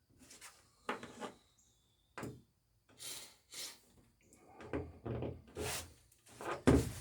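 Irregular wooden knocks, scrapes and rubbing as tools and parts are handled against the wooden planking of a lapstrake dory during riveting. A sharp knock comes about a second in and the loudest near the end.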